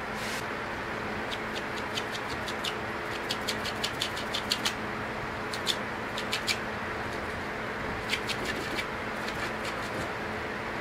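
Sponge loaded with black spray paint being dabbed against poster board, making light, irregular taps, several in quick runs, over a steady background hum.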